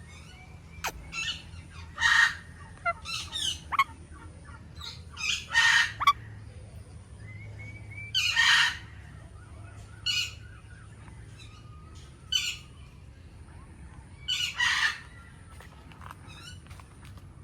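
Indian ringneck parakeet squawking: four loud calls of up to a second each, several seconds apart, with shorter, softer chirps and chatter in between.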